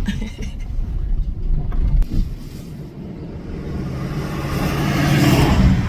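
A car being driven: engine and road noise, easing off around the middle, then swelling with a steady low hum to its loudest near the end.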